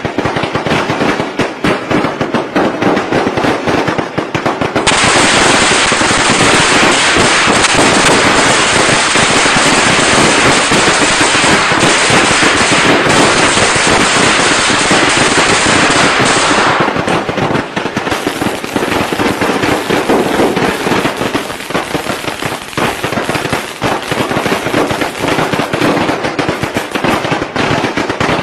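Strings of Tết firecrackers going off in rapid, continuous crackling volleys. From about five seconds in to about seventeen seconds the bangs merge into a denser, louder crackle, then thin back to rapid separate pops.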